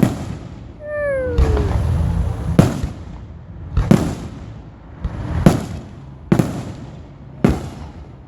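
Fireworks going off: about six sharp bangs spaced roughly a second apart, with a low rumble after the first and a short falling tone about a second in.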